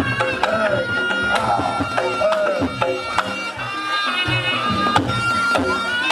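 Reog Ponorogo ensemble music: a slompret (shawm) plays long held notes with some pitch bends over steady kendang drumming and struck gongs.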